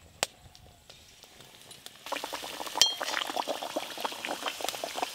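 Nimki dough pieces dropped into lightly heated oil in an aluminium karai start sizzling and crackling about two seconds in. There are sharp metal clinks, one just after the start and one ringing clink in the middle.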